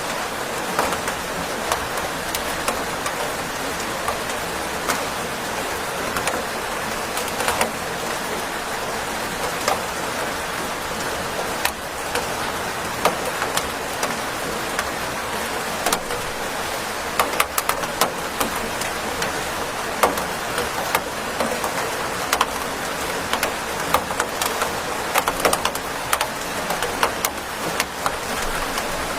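Steady rain, a constant hiss with many individual drops tapping sharply and irregularly on a hard surface.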